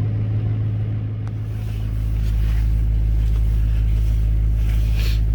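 LBZ Duramax 6.6 L V8 turbo-diesel idling on a cold start, with a steady low drone. About two seconds in, a deeper rumble comes in and the sound gets louder, then holds steady.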